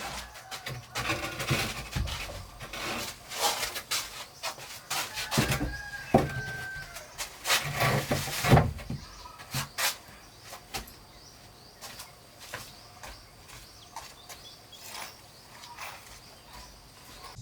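Irregular knocking and clattering, busiest in the first ten seconds and sparser after. A brief high steady tone sounds about six seconds in.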